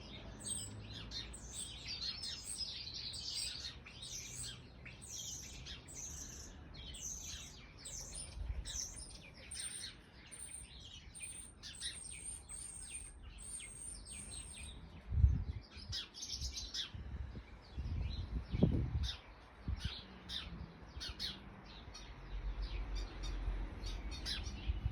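Garden birds chirping and singing without pause, house sparrows and a European robin among them, with a repeated high, thin trill in the middle. A couple of low thumps break in partway through, the first the loudest sound of all, and a low rumble rises near the end.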